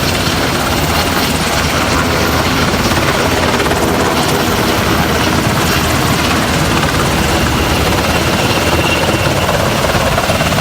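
Helicopter running steadily and loudly, with a rapid low rotor flutter over the engine noise.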